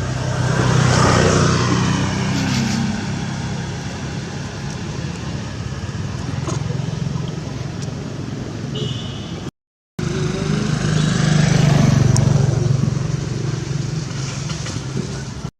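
A motor vehicle engine passing close by, swelling to a peak and fading away; after a short dropout, a second one passes in the same way.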